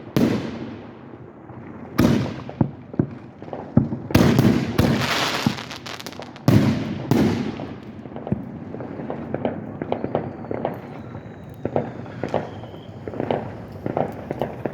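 Aerial fireworks bursting: a series of loud bangs a second or two apart, one followed by a dense crackle, then a run of smaller crackling pops. A faint whistle falls slowly in pitch near the middle.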